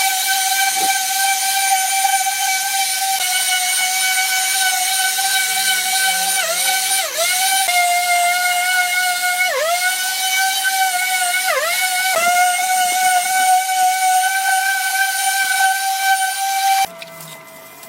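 A high-speed electric power tool running with a steady whine. Its pitch dips briefly several times as it is pressed into the work, and it cuts off abruptly near the end.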